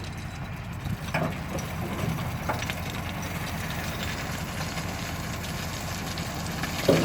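Heavy construction machinery running with a steady low engine rumble, with a few short crunches of broken brick rubble being pushed and crushed, about a second in and again near two and a half seconds.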